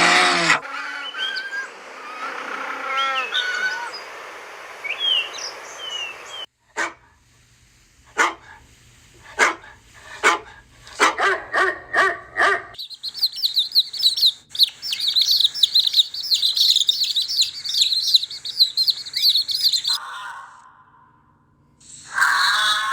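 Clips of animal sounds in turn: birds chirping over a background hiss, then a dog giving a string of short, sharp barks, then a long stretch of dense, high-pitched bird chirping.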